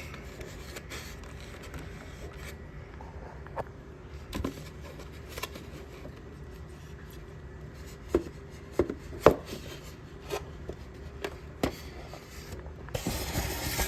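Packaging being handled while a model locomotive is unwrapped and taken from its box: scattered light knocks and clicks, with rubbing and scraping, and a short burst of rustling near the end.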